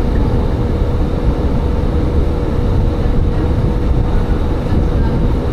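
Tsugaru Railway diesel railcar running along the line: a steady rumble of engine and wheels on the rails with a thin, steady hum.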